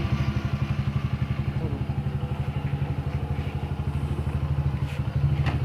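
Motorcycle engine idling with a steady, rapid putter of about ten beats a second.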